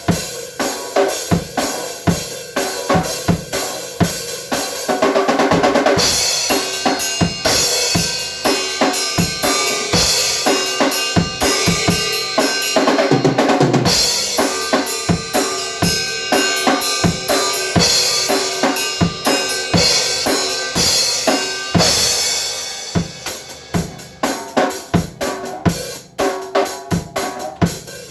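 Drum kit being played: rapid, continuous snare and bass drum hits with stretches of cymbal wash.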